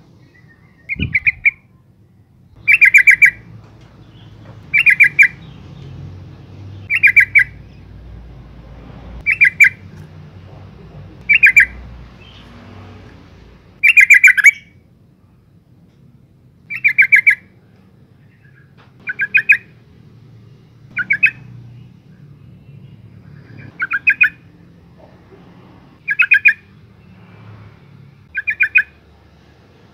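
Female yellow-vented bulbul calling: short, loud chattering bursts repeated about every two seconds. This is the call a female gives to draw a male.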